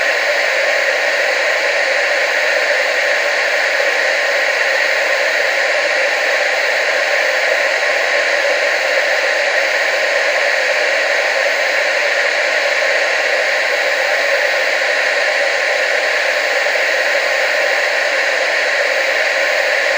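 Television static: a steady, loud, even hiss with the deep bass cut away.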